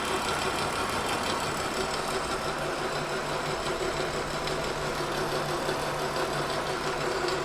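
Kearney & Trecker 2HL horizontal mill taking a cut across a cast iron straight edge with an inserted cutter: a steady machining noise carrying a held chattering tone. The chatter comes from the setup lacking rigidity, which the machinist puts down to poor clamping.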